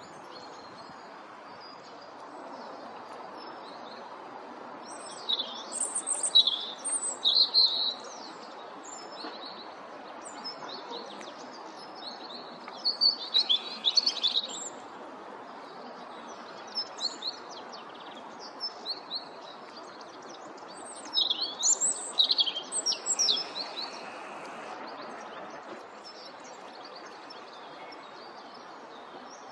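Small songbirds chirping and calling in quick, high-pitched bursts, three louder clusters with scattered single notes between, over a steady background noise.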